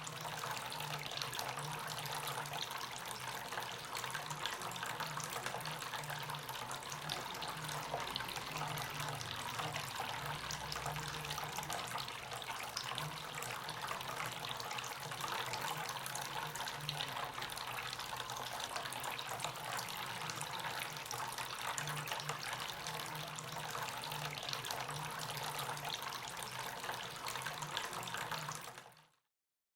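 Water trickling and splashing steadily from a small homemade cement fountain, with a faint low hum underneath that comes and goes; it fades out shortly before the end.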